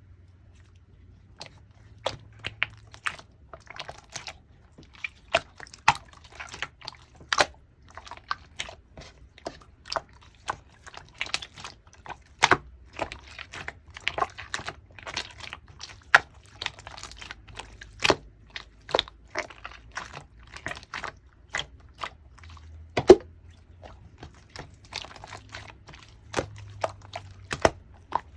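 Clear slime being played with by hand, making irregular clicks and pops, one to a few each second, starting about a second and a half in.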